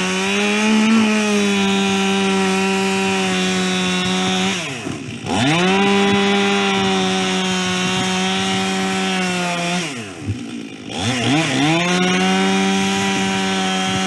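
Chainsaw in a chainsaw mill running at high revs as it rips lengthwise through a white pine log. Twice the revs drop sharply and climb back, once near the middle and again about ten seconds in.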